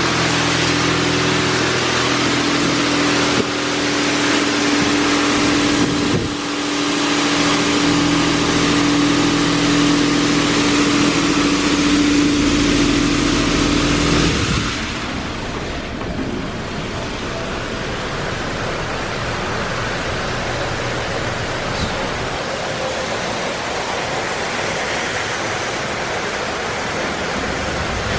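Washworld High Velocity touchless car wash heard from inside the car: water spraying onto the car over a steady machine whine. The whine cuts off about halfway through, and the spray hiss carries on a little quieter.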